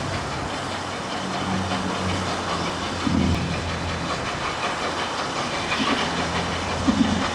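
Steam locomotive hissing steam continuously over a low steady hum, with a few short, louder low bursts.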